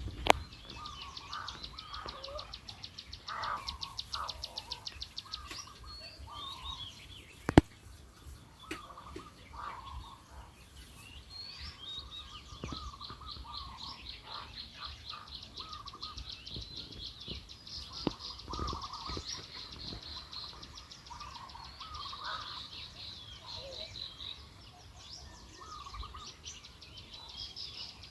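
Several birds calling back and forth in short repeated phrases, over long stretches of a fast, high-pitched ticking trill. A single sharp click about seven and a half seconds in.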